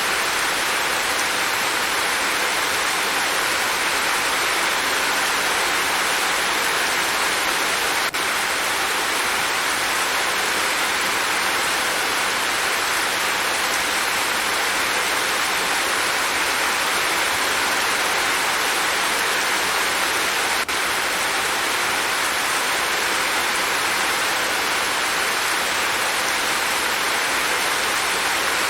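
Steady rain falling, a dense, even hiss with no single drops standing out. It dips for an instant twice.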